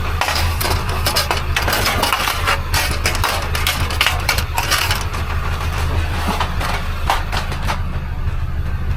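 Rapid clattering and knocking of hard objects being handled, thinning out near the end, over the steady low hum of an idling vehicle engine.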